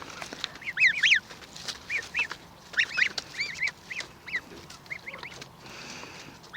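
27-day-old Linda goslings peeping: many short, high, arching peeps, several a second, coming in clusters.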